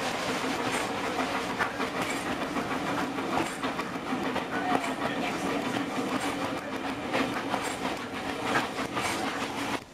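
Passenger train running along the line, heard from inside the carriage: a steady rumble of wheels on rails with irregular clicks from the rail joints. It cuts off suddenly just before the end.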